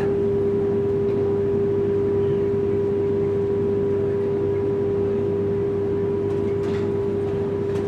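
Steady, unchanging hum of one pitch over the even low rumble inside a high-speed train carriage.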